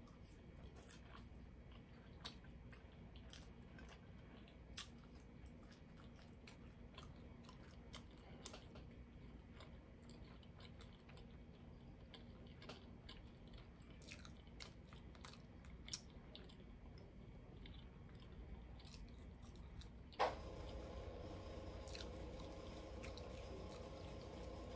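A person chewing a mouthful of McDouble burger with the mouth closed: faint soft smacks and small wet clicks. About twenty seconds in there is one sharp click, after which a steady hum sets in.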